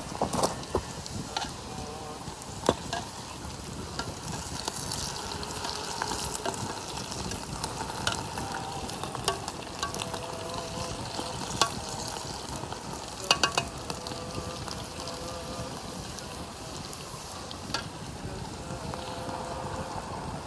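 Potato fries sizzling in hot oil over a campfire: a steady frying hiss with sharp pops now and then, several close together about two-thirds of the way through.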